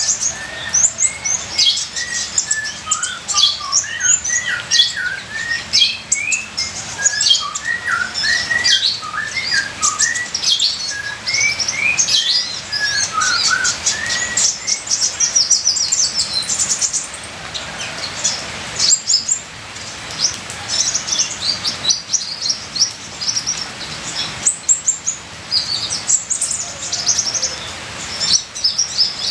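Kolibri ninja sunbird singing a fast, unbroken twittering song of high chirps, trills and rising and falling whistles, a 'full isian' song packed with varied fill phrases.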